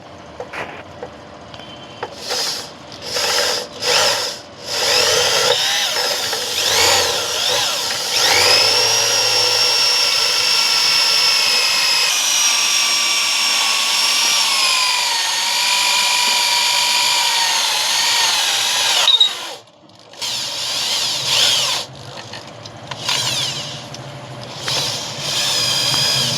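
An electric power tool runs in several short bursts, then gives a long steady whine that dips in pitch twice as it is loaded. It cuts off suddenly, then starts again in short bursts.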